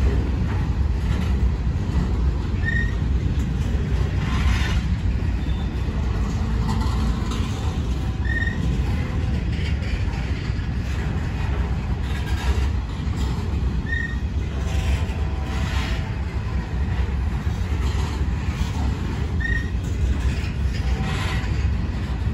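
Freight train of covered hopper cars rolling past at low speed: a steady low rumble of steel wheels on rail, with a few scattered knocks.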